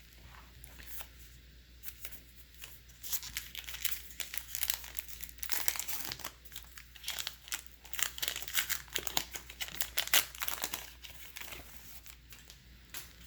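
A baseball card pack's wrapper being torn open and crinkled in the hands, in irregular crackling bursts that are busiest in the middle and die down near the end.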